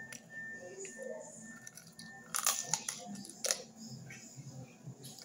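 Chewing and biting into a roast chicken leg held in the hands, the tough meat of a large hen being pulled apart with the teeth, with a few sharp crunches about two and a half and three and a half seconds in.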